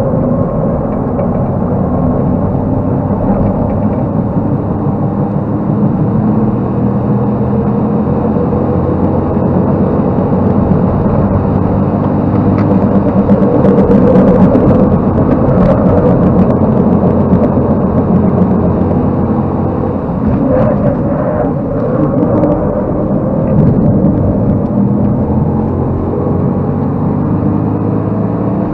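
Ford Fiesta Mk8's 1.0 EcoBoost turbocharged three-cylinder engine, Stage 1 remapped, driven hard on track and heard from inside the cabin. Its pitch climbs and drops again and again through gear changes and corners.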